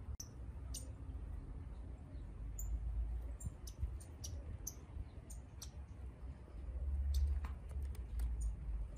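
Short, sharp, high chip notes from a small bird, scattered irregularly, several to a second at times. Underneath is a low rumble on the microphone that swells about seven seconds in.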